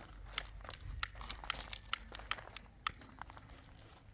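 A run of irregular sharp clicks and crinkling, about a dozen, thinning out and fading toward the end.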